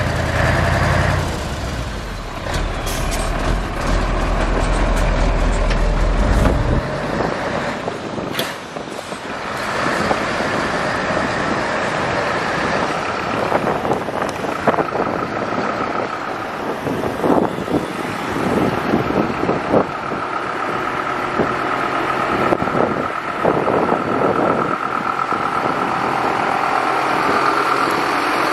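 Truck engine running with a heavy low rumble that stops about seven seconds in. Clicks, knocks and a steady thin whine follow.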